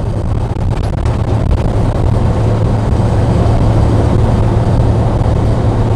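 Steady engine and road noise inside the cab of a moving truck, with a constant low hum.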